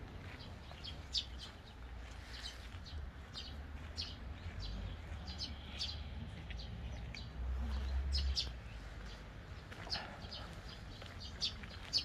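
Small songbirds chirping in the trees, short high chirps scattered irregularly, over a low rumble that swells briefly about eight seconds in.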